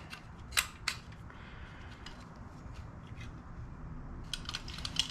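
Small metal parts of a heater control unit clicking and tapping as they are worked and forced into place by hand, a poor-fitting reproduction piece that will not line up. Two sharp clicks about half a second in, then a run of light clicks and taps near the end.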